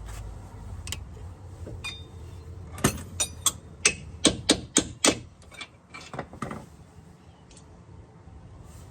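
A quick run of about a dozen sharp knocks and clicks, bunched together in the middle, over a faint steady background.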